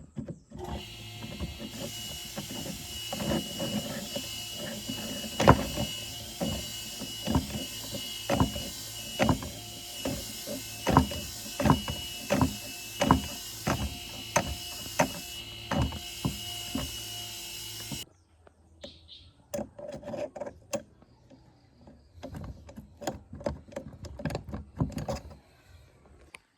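A motor-driven workshop tool runs steadily with a high whine, struck by sharp knocks about once a second. It cuts off suddenly about two-thirds through, leaving scattered clicks and taps.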